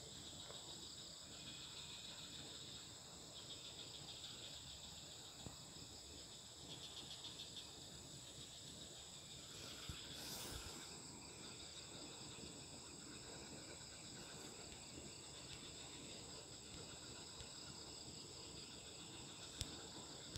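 Insects chirring steadily, a high, finely pulsing buzz, with a single faint sharp click near the end.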